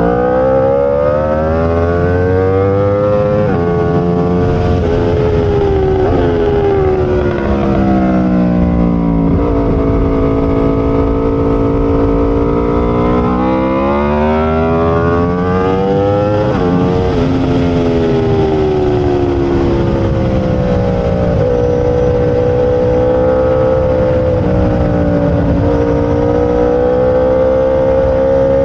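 Aprilia RSV4 racing motorcycle's V4 engine running hard, its note falling as it slows and climbing again as it accelerates, over and over, with a steadier stretch near the end.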